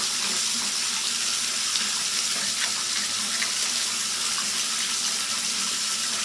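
Water running steadily from a tap into a basin.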